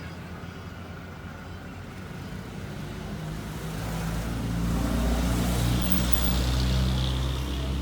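A motor vehicle's engine growing louder over a few seconds, loudest about five to seven seconds in, then easing off, as a vehicle comes close.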